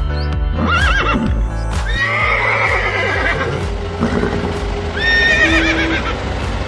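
Horse whinnying twice, a long wavering call that falls in pitch, then a shorter one about five seconds in, over background music.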